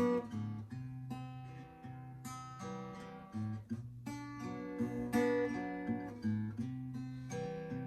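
Acoustic guitar playing a song's instrumental intro, strummed chords with a moving bass line.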